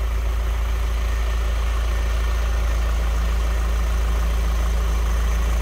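Audi A3 2.0 TDI four-cylinder diesel engine idling steadily, running again after its crankshaft seal and sensor ring were replaced to cure a no-start.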